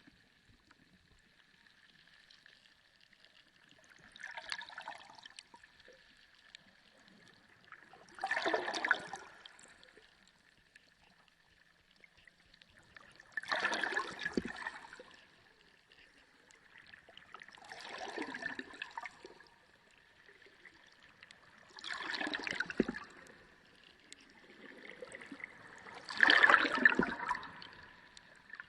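Sea water surging in waves, six rushing swells about one every four to five seconds, the last the loudest, over a faint steady high hum.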